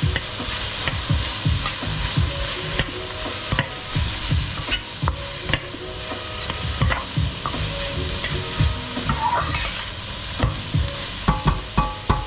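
Food sizzling in a frying pan while being stirred, with a steady hiss and frequent irregular knocks and scrapes of the utensil against the pan.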